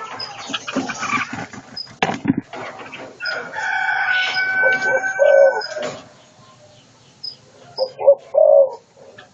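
A rooster crowing once, a long call of about two and a half seconds, with faint high chirps of small birds scattered through; a few short low calls follow near the end.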